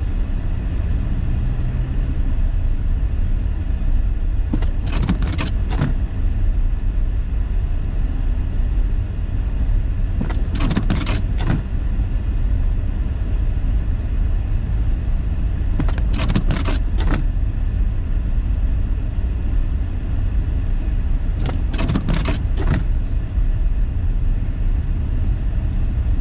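Steady road and engine rumble inside a moving car, with a short burst of clicks or scraping roughly every five to six seconds.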